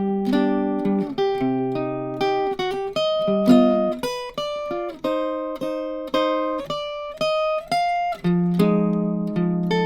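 Acoustic archtop jazz guitar, a D'Angelico NYS-1, picked with a pick in a chord-melody arrangement of a jazz waltz: chords and single melody notes, each struck and left to ring. The guitar is heard dry, without reverb.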